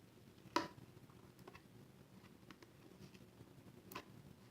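Faint taps and small clicks of cardstock pieces being handled and repositioned on a craft table, with one sharper tap about half a second in and another near the end.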